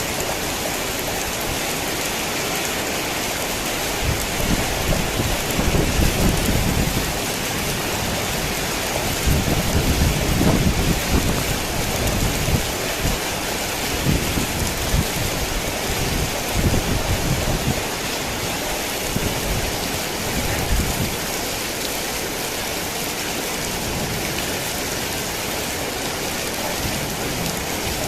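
Heavy rain falling steadily, with thunder rumbling in rolling waves from a few seconds in until about three quarters of the way through, loudest in its first half.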